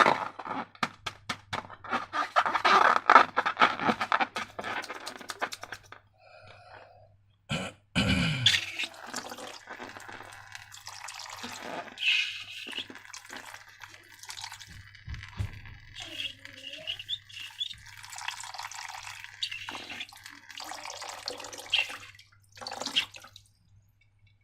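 Slime being worked by hand: a quick run of sticky clicks and scraping for the first few seconds, then irregular wet squelching and dripping, with one sharp knock about eight seconds in.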